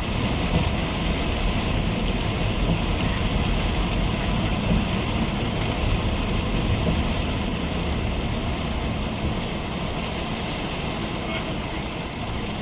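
Car driving: a steady low rumble of road and engine noise with a hiss over it, easing slightly near the end.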